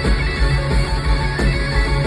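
Live hard rock band playing an instrumental passage with no vocals: electric guitar over bass and a steady, driving drum beat.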